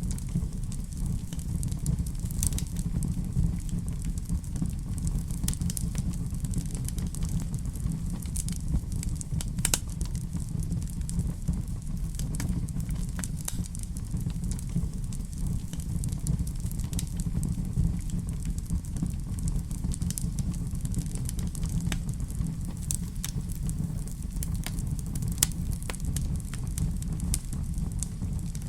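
Wood fire in a fireplace burning, with a steady low rumble and frequent scattered crackles and pops.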